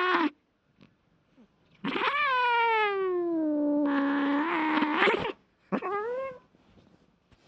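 Domestic cat caterwauling in a fight: a long drawn-out yowl that slides slowly down in pitch and turns raspy toward its end, followed by a shorter yowl that rises and falls.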